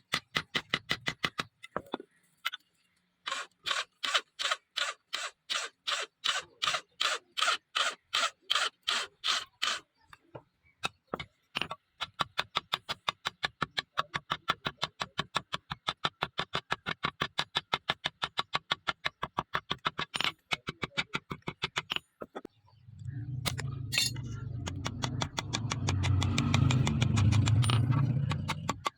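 A steel knife blade being worked by hand with fast, even scraping strokes, about four to six a second, pausing briefly twice. Near the end, a louder, low, continuous rumbling noise takes over.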